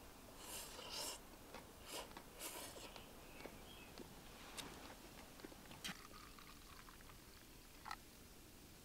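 Quiet handling sounds of camp cooking gear: a few soft swishes and rustles, then scattered small clicks, over a faint steady hiss.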